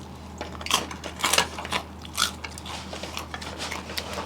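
Close-miked chewing: irregular wet mouth clicks and smacks of someone eating a meal of rice and fish, over a steady low hum.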